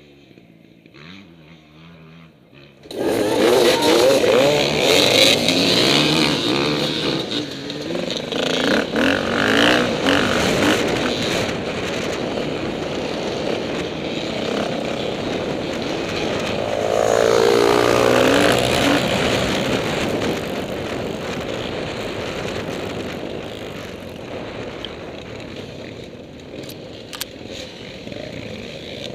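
KTM 450 four-stroke dirt bike engine ticking over quietly, then about three seconds in the throttle opens sharply and the bike is ridden hard, engine pitch climbing and dropping with throttle and gear changes, settling a little lower near the end.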